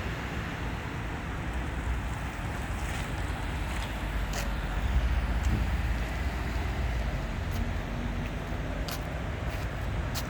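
Steady roadside traffic rumble mixed with wind buffeting the microphone, with a few faint clicks.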